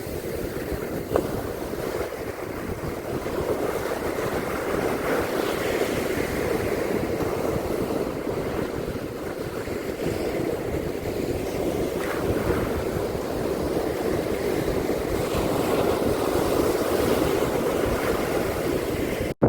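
Surf washing steadily on a beach, with wind on the microphone. There is a single sharp click about a second in, and the sound breaks off abruptly at the very end.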